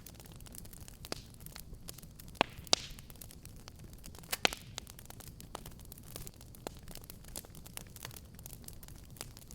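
Wood fire crackling steadily, with irregular small snaps over a low rumble and a few louder pops around two and a half and four and a half seconds in.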